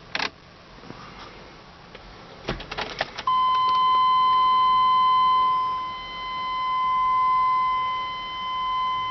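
A few clicks and a short rattle like keys, then an electronic warning tone from the 1997 Chevrolet Suburban's dashboard sounds steadily for about six seconds, one held high note that swells and dips slightly in loudness.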